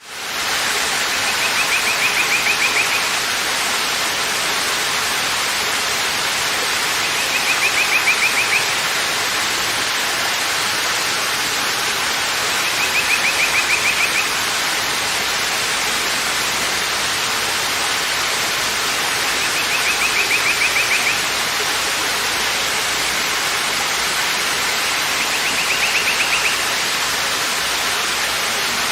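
Waterfall rushing with a steady, even roar that fades in at the start. Over it, a short high trill of rapid pulses, about a second long, comes five times, roughly every six seconds.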